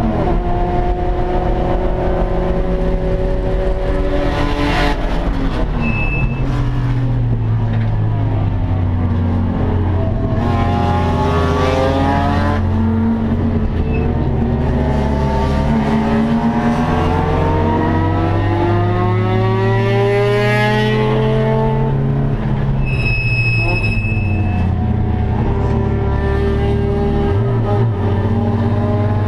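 Nissan 240SX race car's turbocharged SR20DET four-cylinder engine heard from inside the stripped cabin, revs climbing through the gears and dropping off under braking several times. A short electronic beep sounds about six seconds in and a longer one about two-thirds of the way through.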